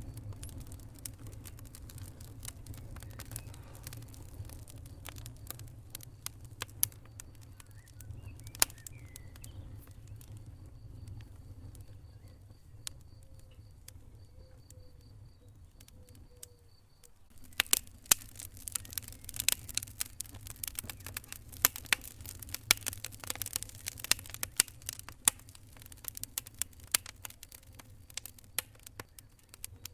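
Wood fire crackling and popping in a fireplace over a low steady rumble. The crackle thins and briefly dies away a little past halfway, then comes back denser and sharper.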